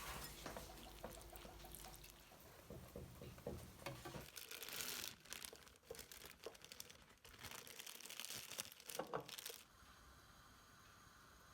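Faint kitchen preparation sounds: irregular rustling, light clicks and short scraping or pouring noises from ingredients and utensils being handled. They stop about nine and a half seconds in, leaving a faint steady hum.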